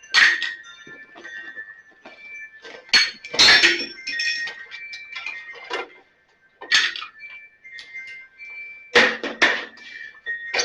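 A handful of sharp metallic clanks and clinks, a few seconds apart, from hands and tools working on a riding mower, over faint steady high-pitched tones.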